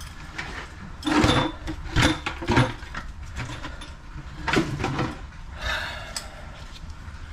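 A run of knocks and clatters as something is bumped and handled: a burst about a second in, two more sharp knocks shortly after, and another cluster a little past the middle.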